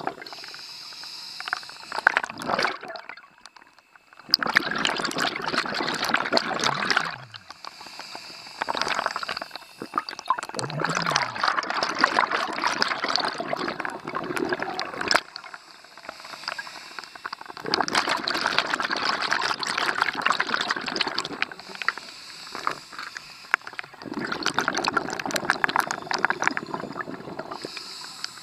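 Scuba diver's exhaled bubbles rushing out of the regulator in several bursts a few seconds long, with quieter gaps between breaths.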